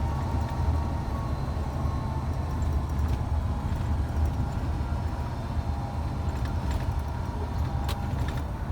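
Scania truck's diesel engine running steadily on the move, a low rumble with road noise, with a few faint ticks.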